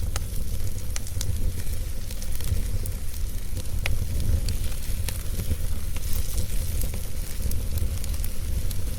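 Wood fire crackling, with scattered sharp pops at irregular moments over a steady low rumble.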